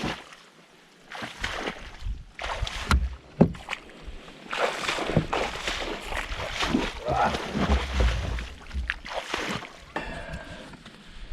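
Irregular sloshing and squelching as people wade through waterlogged bog muck, hauling a canoe along by rope, with dull low thuds among the swishes.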